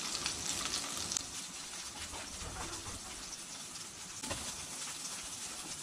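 Angus beef burger patty frying in hot oil in a nonstick pan: a steady sizzle with fine crackling.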